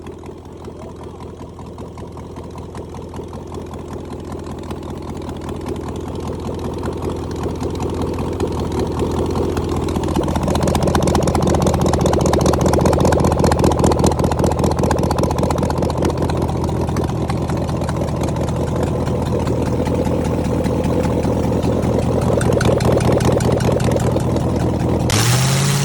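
Land Rover Defender's 3.5-litre Rover V8 idling steadily, growing louder over the first ten seconds or so, then holding level. Near the end the revs begin to rise.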